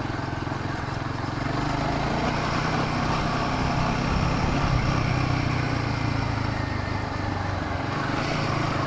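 Royal Enfield Himalayan 450's single-cylinder engine running at a steady pace while riding, with road and wind noise; it grows slightly louder a couple of seconds in and eases back again.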